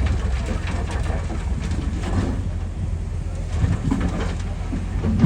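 Heavy diesel earthmoving machinery at work: a steady low engine rumble with irregular clanking and rattling over it.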